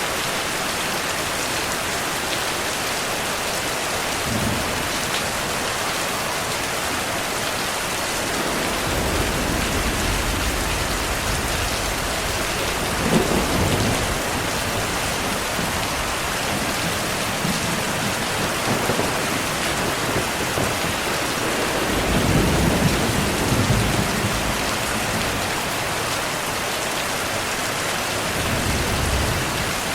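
Heavy rain falling steadily, with low thunder rumbling in from about a third of the way through. The louder rolls come near the middle and again about three-quarters of the way through.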